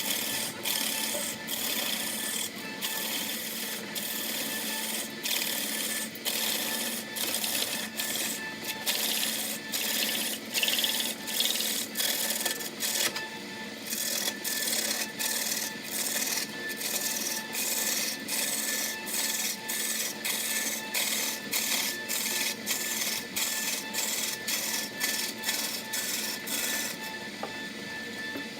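Wood being scraped or rasped on a lathe: a rough scraping that breaks off and resumes about once or twice a second, over a steady machine hum.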